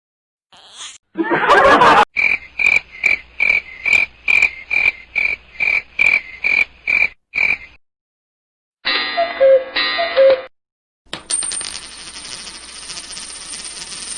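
A run of separate sound-effect clips played one after another: a short noisy burst, then a string of about fourteen evenly spaced ringing pulses, a brief pitched sound, and finally a steady hiss with a high thin whine.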